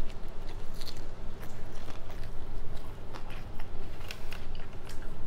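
A person biting into and chewing a mouthful of sushi roll topped with ginger and wasabi, the mouth giving irregular short clicks and smacks.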